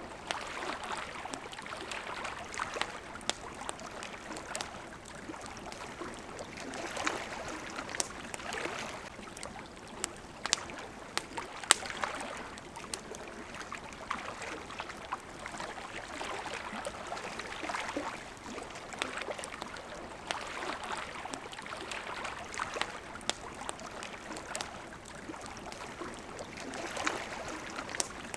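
Water lapping in slow swells every few seconds, with a wood campfire crackling in many sharp pops over it, one pop louder about twelve seconds in.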